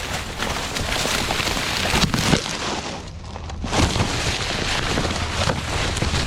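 Steady rustling and brushing through dry hunting cover with wind noise on the microphone, easing off briefly about three seconds in.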